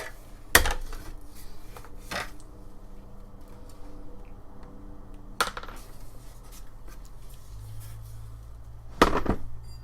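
Metal hand tools and trimmer-attachment parts clinking and knocking: four separate knocks, the loudest about half a second in and near the end, with faint scraping and handling noise between.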